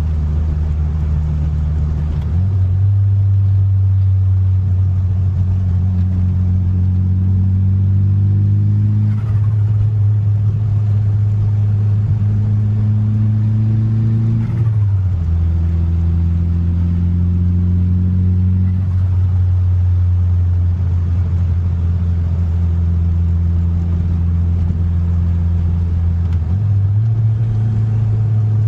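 The turbocharged 4G63 four-cylinder engine of a 1995 Mitsubishi Eclipse GSX running under light throttle while driving. Its note steps up about two seconds in and climbs slowly, drops sharply about fifteen seconds in, holds steady, and steps up again near the end.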